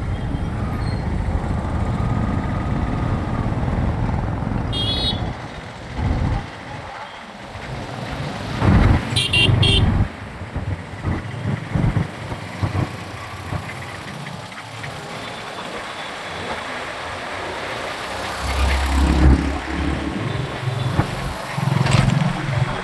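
City traffic heard while riding a motorcycle: road and wind rumble, heavy for the first few seconds and then lighter, with passing vehicles. A couple of short, high horn toots come about 5 and 9 seconds in.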